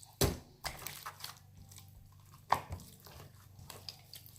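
Slime being scooped out and moved into another container: sticky squishing and crackling with a few sharp clicks, the loudest about two and a half seconds in.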